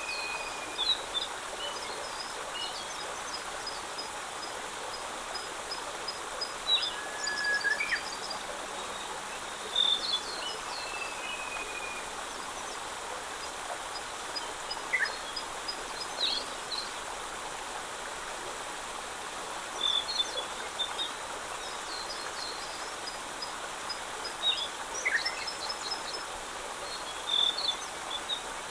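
Songbirds calling and singing outdoors: quick high trills of rapidly repeated notes, short whistles and chirps come and go throughout, over a steady rushing background hiss.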